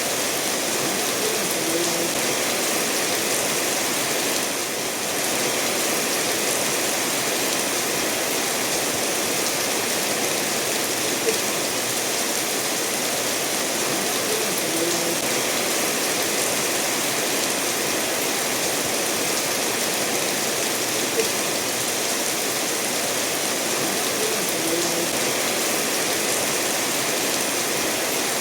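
Steady rain falling together with a stream running over stones, an even, unbroken wash of water noise.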